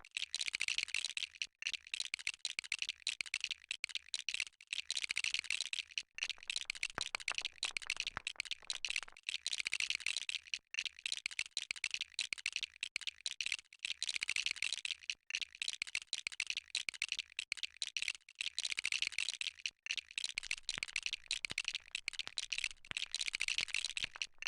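Plastic Lego pieces clicking and rattling as they are handled and snapped together, a dense stream of small clicks with a brief pause every second or two.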